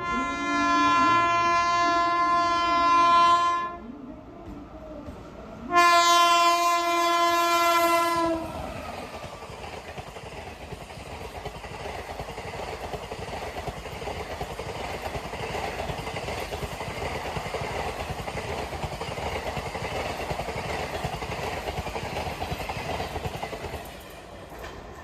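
WAP-5 electric locomotive's air horn sounding two long blasts, then the train passing at speed with a steady rush of wheels and clatter over the rail joints that fades near the end.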